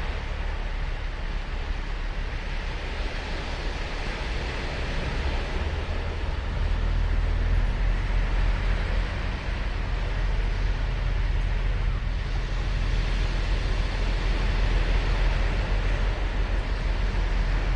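Ocean surf breaking and washing ashore: a steady wash of noise over a deep low rumble that grows louder about six and a half seconds in.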